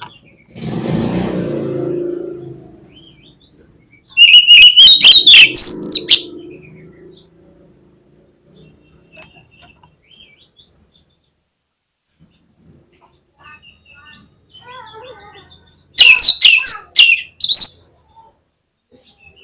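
Oriental magpie-robin (kacer) singing: two loud bursts of fast, varied, high song about four and sixteen seconds in, with quieter chirps and calls between them. A short low rushing noise comes about a second in.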